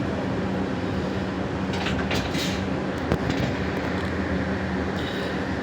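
Scania hybrid bus running, a steady low hum with road noise. A brief burst of rattling comes about two seconds in and a single click about three seconds in.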